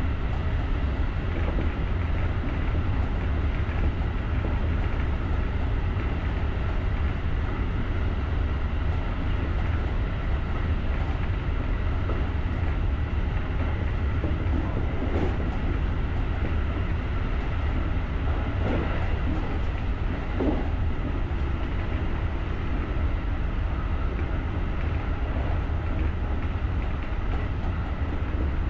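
JR rapid electric commuter train running at speed, heard from the cab: a steady low rumble of wheels on rail with faint steady tones over it. A few light knocks come in the middle.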